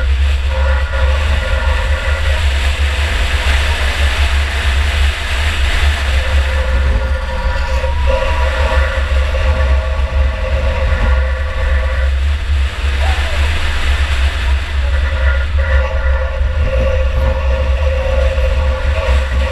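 Enduro car's engine running hard, heard from inside the car: a heavy steady rumble with a whining tone that comes in and drops away several times as the throttle opens and closes.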